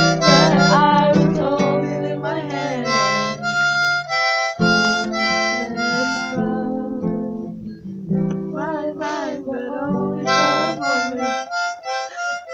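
Harmonica playing held chords and melody notes in time with a strummed acoustic guitar, with a brief break about four and a half seconds in.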